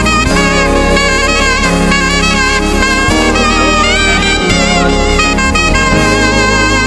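Live gospel band playing an instrumental passage, with a saxophone leading an ornamented melody that bends and wavers in pitch over keyboard and a steady low end.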